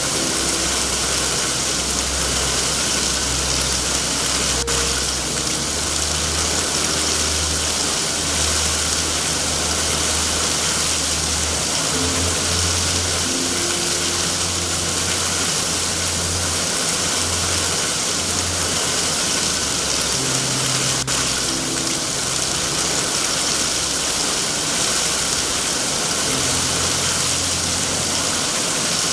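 Steady heavy rain hissing over a low rumble, with two sharp pops from a fireplace, about five seconds in and about twenty-one seconds in.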